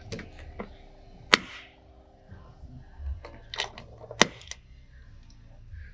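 Paintless dent repair tools working on a car panel: a few sharp snaps and clicks, the two loudest about three seconds apart.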